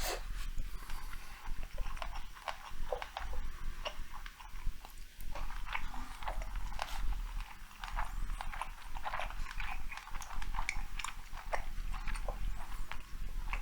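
A person chewing sushi rolls close to the microphone: a steady stream of wet smacking and clicking mouth sounds, over a low steady hum.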